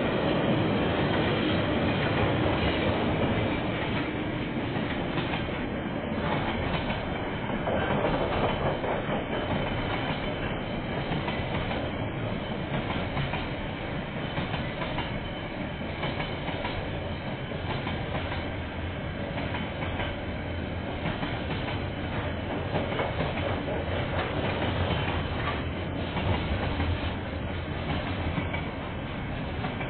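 Freight train of container wagons rolling past, a steady rumble of wheels on rail with frequent irregular knocks.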